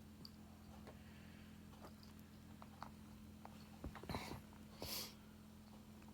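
A cat sniffing at a new chew toy, faint and close: light clicks and taps, then two short sniffs about four and five seconds in.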